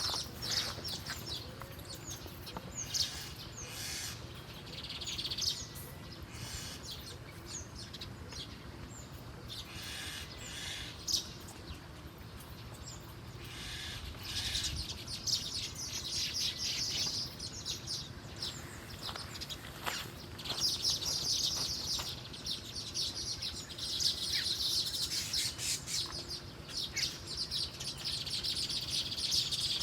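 Small songbirds chirping and twittering in bouts of quick high chirps, the bouts coming thicker and longer in the second half.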